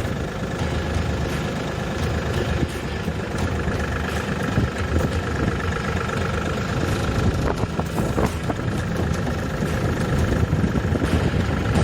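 Engine of an EG220 farm machine running steadily during its operation check, with a few short clicks about eight seconds in.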